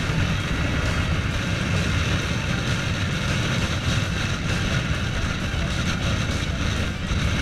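A motorcycle being ridden: steady engine and road noise from an on-board camera, with no clear changes in pitch.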